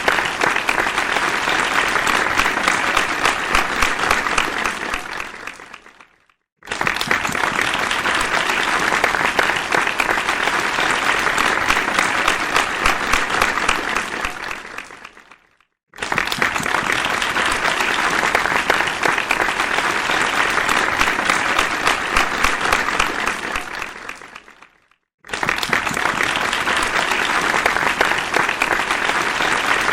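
Audience applause, many hands clapping together. It comes in segments of about nine seconds that each start suddenly at full strength and die away over a second or two into a brief silence, three times over.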